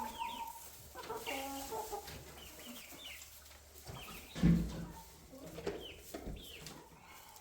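Flock of chickens in a coop clucking, with many short high peeps over the clucks, and one dull thump about four and a half seconds in.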